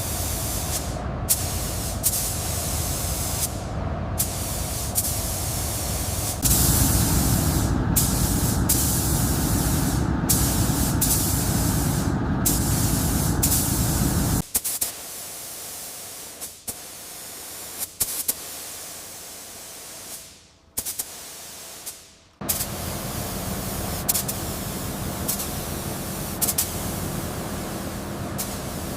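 Steady hissing spray noise, louder from about six to fourteen seconds in, then much quieter for several seconds before rising again, broken by sudden cuts.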